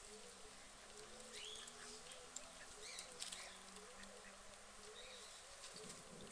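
Faint outdoor ambience with small birds chirping now and then, over a soft low call repeating about twice a second.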